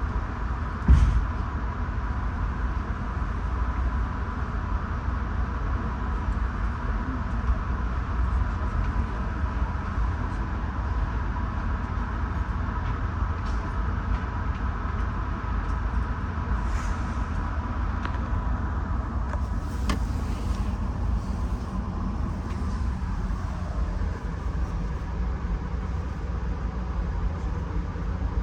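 Inside a Bombardier LRC passenger coach: steady low rumble with a thin constant hum, and one sharp thump about a second in.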